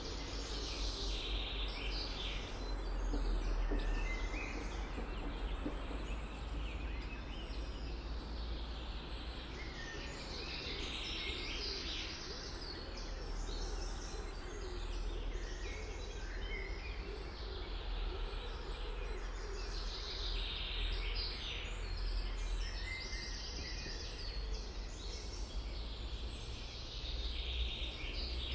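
Several songbirds singing in repeated phrases over a steady low background rumble.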